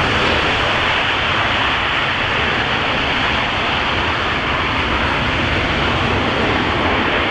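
C-17 Globemaster III's four turbofan engines in reverse thrust during the landing rollout: a loud, steady jet roar with a deep rumble underneath.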